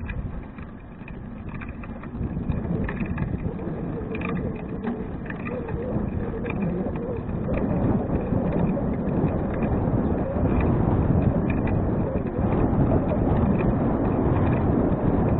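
Wind rush on the action camera's microphone and tyre rumble from a touring bicycle being ridden, growing steadily louder as the bike gathers speed.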